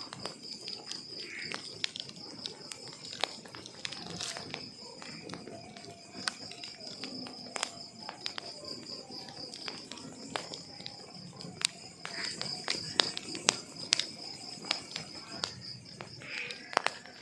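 Wood logs burning in a fireplace, crackling with irregular sharp pops that grow busier and louder in the last few seconds. Under them runs a steady high cricket trill.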